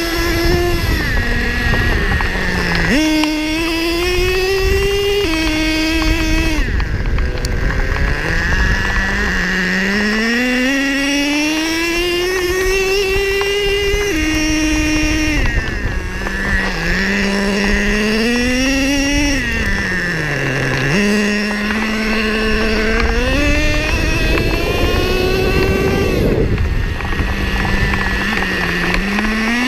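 Nitro two-stroke glow engine of a Traxxas Revo 3.3 RC monster truck, a Losi 3.4, running hard. Its pitch climbs over a few seconds and drops again, over and over, as the throttle is opened and eased off, holding briefly at a steady lower note between runs.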